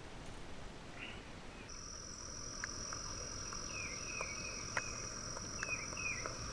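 Creek-side ambience: a steady high-pitched insect drone that starts a couple of seconds in, with several short, falling bird chirps over it.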